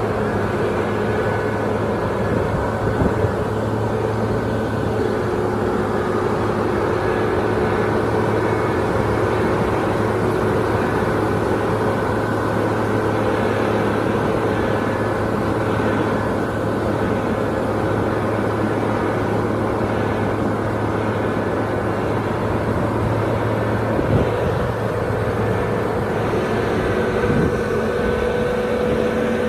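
Bulldozer's diesel engine running steadily under load, with a slight rise in engine pitch near the end and a single knock shortly before.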